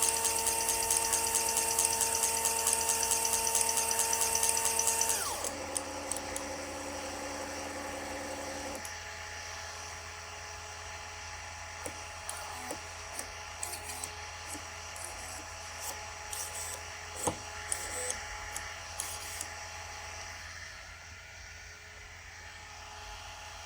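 Stepper motors on a Klipper-driven Arduino UNO and CNC shield test rig whining at a steady pitch, dropping quickly to a lower steady whine about five seconds in. The whine stops about nine seconds in, leaving scattered light clicks and ticks.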